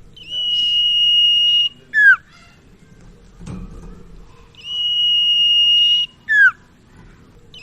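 Common iora (sirtu/cipau) singing: a long, steady, high whistle held for about a second and a half, ending in a short, sharply falling note, given twice.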